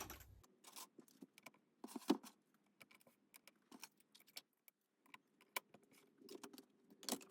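Light scattered clicks, clinks and rustles of craft supplies being pushed around and picked through on a worktable, with a louder knock about two seconds in and another near the end.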